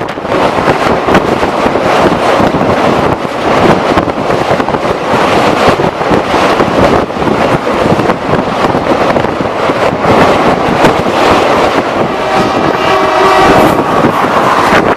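Loud rush and clatter of a passenger train passing close at speed, wheels clicking over the rail joints. A train horn sounds for about two seconds near the end.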